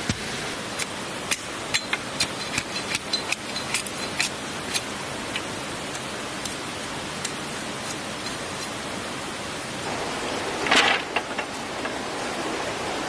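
Steady rush of a flowing stream, with a quick series of light sharp knocks over the first few seconds and a brief louder rustle or scrape near the end.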